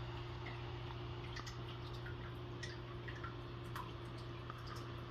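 Faint room tone: a steady low hum with scattered, irregular soft ticks and drip-like blips.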